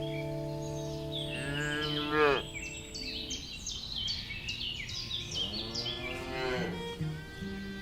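Cattle mooing twice: a loud call about a second and a half in, then a second, longer moo from about five seconds in. Birds chirp rapidly between the two calls.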